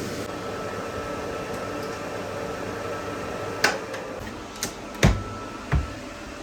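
A kitchen appliance running with a steady hum, broken about halfway through by four sharp clicks and knocks.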